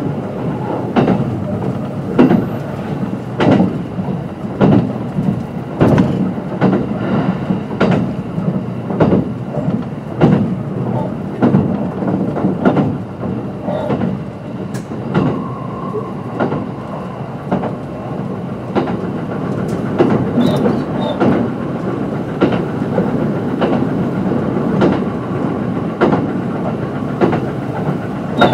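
Kintetsu 22600 series electric limited express running along the line. Its wheels click over rail joints about once a second over a steady rolling rumble, and the clicks grow fainter about halfway through.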